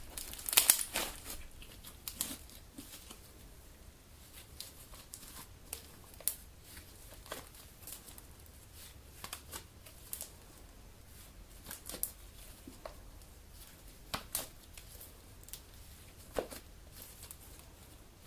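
Homemade glue slime being kneaded and stretched by hand, giving irregular sticky pops and crackles, with a cluster of louder pops about a second in.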